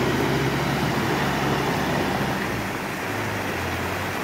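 Truck engine running at a steady low pitch under a constant hiss of road and driving noise.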